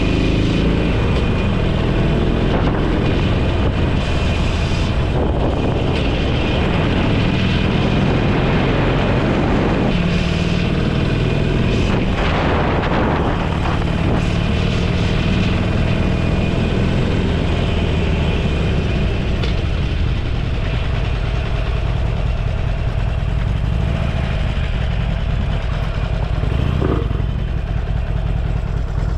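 Motorcycle engine running steadily under way, with wind and road noise; a brief louder rush of noise about twelve seconds in.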